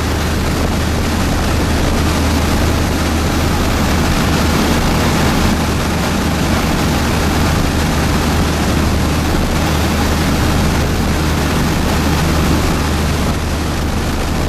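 Hurricane-force wind blowing steadily, a loud even rush with a deep low rumble from the gusts striking the microphone.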